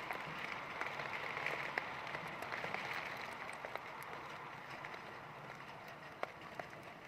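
Heavy rain falling steadily: a dense hiss of drops with scattered sharper drip hits, easing slightly a few seconds in.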